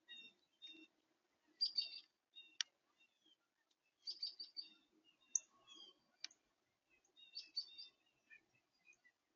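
Small birds chirping faintly, in quick clusters of short high notes with pauses between them. Two sharp clicks come a few seconds apart.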